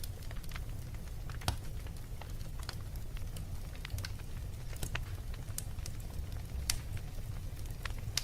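Fire in a fireplace crackling, with sharp irregular pops every half second or so over a steady low rumble.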